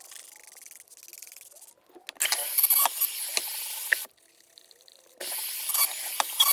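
Water spraying in two bursts of about two seconds each, with splashing and clicks, after a quiet start.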